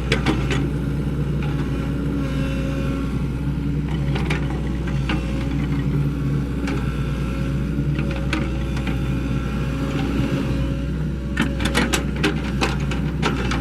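Sany SY75C excavator's diesel engine running steadily under working load, with a hum whose pitch and strength shift as it works. Clusters of sharp clacks come just at the start and again from about eleven seconds in.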